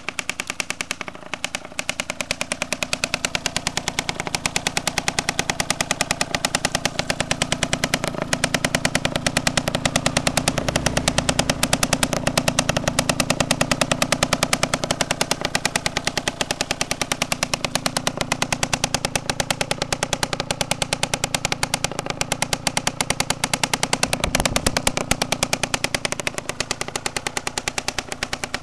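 Kawasaki KSR80's single-cylinder two-stroke engine running, its exhaust pulsing in a rapid, even stream that swells a little a couple of times.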